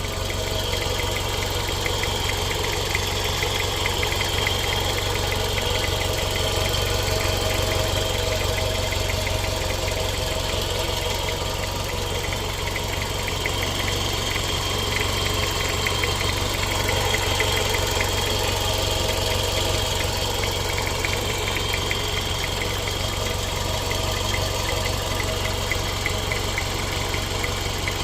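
Toyota MR-S 1ZZ-FE 1.8-litre inline-four engine idling steadily, with a hollow knocking running through it as a fast, even ticking. The owner does not know its cause, since the engine otherwise seems to run fine.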